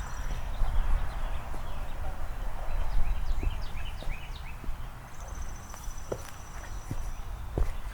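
Footsteps of hiking boots on pavement, a knock roughly every second. Birds singing over them: a run of quick chirps in the middle, then a fast, high, even trill held for about two seconds near the end, over a low rumble.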